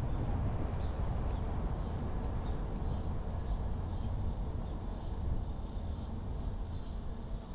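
Steady low rumble of a car driving on an open road, road and wind noise with no change in pace, with a few faint high chirps on top.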